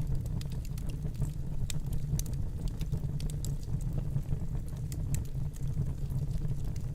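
Wood fire burning in a fireplace: a steady low rumble with many scattered sharp crackles and pops.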